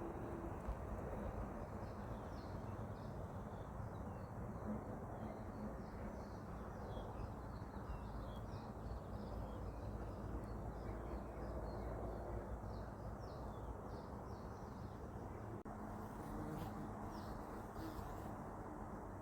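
Outdoor countryside ambience: small birds chirping in short, scattered high calls over a steady low background rumble.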